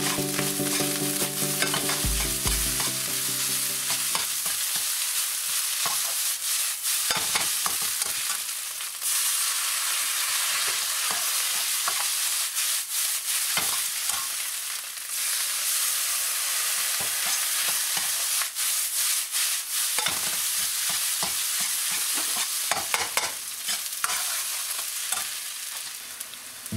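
Fried rice sizzling in a wok over high heat while a ladle stirs it, scraping and knocking against the pan. Background music plays over the first few seconds.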